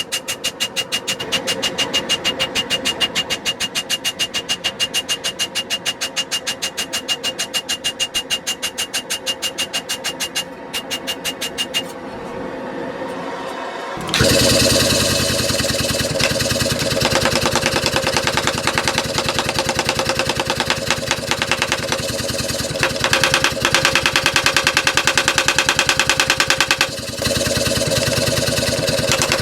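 Rapid, evenly spaced hammer blows, several a second, typical of a power hammer forging ball-bearing steel for a chisel blade. They stop about 12 seconds in, and about 14 seconds in a louder, steady machine sound starts suddenly and runs on with a fast rhythm.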